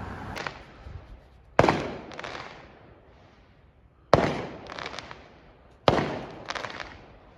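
Fireworks going off: three loud bangs about two seconds apart, each followed about half a second later by a quick cluster of crackles.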